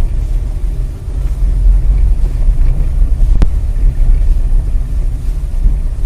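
Loud low rumble of a moving car's road and engine noise as picked up by a dash cam, with a single sharp click about three and a half seconds in.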